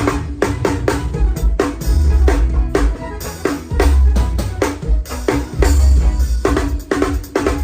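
Drum kit played in a fast groove of kick drum, snare and rimshots over a forró song, with deep bass notes underneath.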